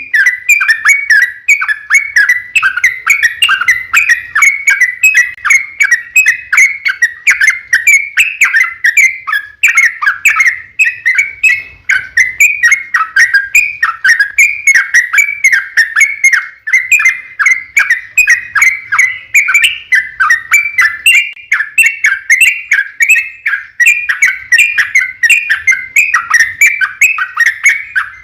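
Yellow-vented bulbul (trucukan) in full song: an unbroken run of quick, bubbling chirped notes, several a second, with no pause.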